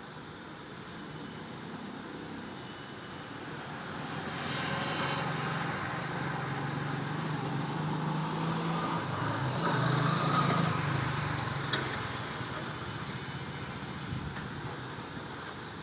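A road vehicle passing by: its engine and tyre noise grow louder over several seconds, peak about ten seconds in, then fade away.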